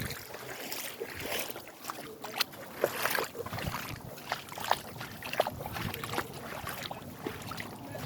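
Floodwater splashing and sloshing in irregular, uneven splashes, a few of them louder.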